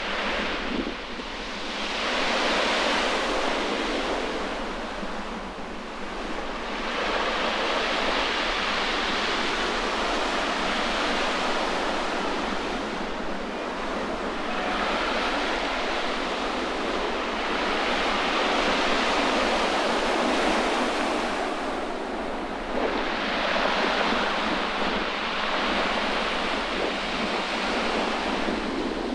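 Sea waves breaking and washing on the shore, surging and easing every few seconds, with wind buffeting the microphone.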